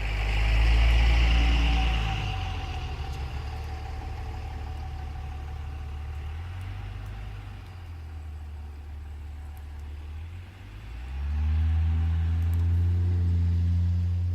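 Car engine running and being revved in two surges, one in the first couple of seconds and another from about eleven seconds in, with a lower steady run between them.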